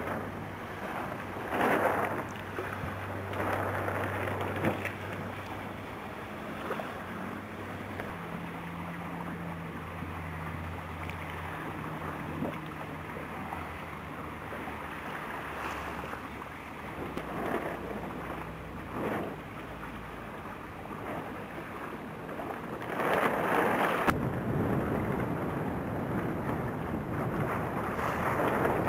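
Wind buffeting the microphone and water rushing and splashing against a hull out on the water, with a steady low engine hum underneath that shifts pitch a few times. Several louder gusts or splashes come through, and the hum changes and the water noise grows louder about three quarters of the way in.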